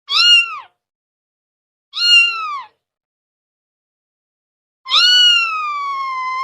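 Domestic cat meowing three times: two short meows, then a long drawn-out one near the end.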